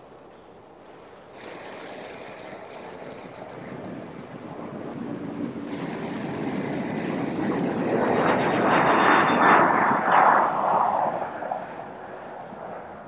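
Airbus A310 (RCAF CC-150 Polaris) twin turbofan jet engines at takeoff power as the airliner passes: a rushing jet roar with a high fan whine that builds for several seconds, is loudest about eight to ten seconds in, then fades.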